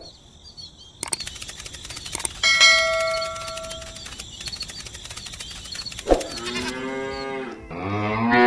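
A cow mooing in long, drawn-out calls near the end, after a few seconds of clattering with a steady ringing tone like a bell.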